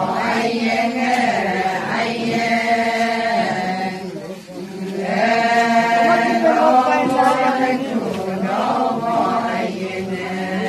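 Voices chanting in long held notes over a steady low drone, with a short break about four and a half seconds in.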